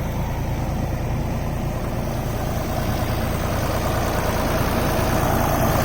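Waldon 5000 articulating wheel loader's Deutz diesel engine running steadily, growing a little louder toward the end.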